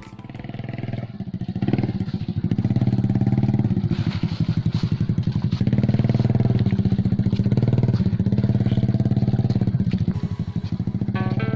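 A small engine running, its loudness building over the first two seconds and then holding steady; music comes in at the very end.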